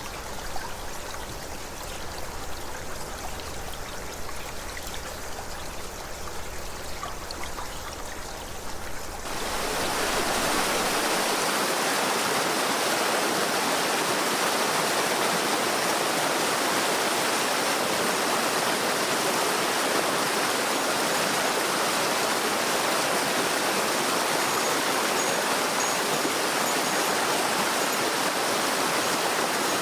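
Mountain stream babbling over stones. About nine seconds in it cuts to a louder, steady rush of water.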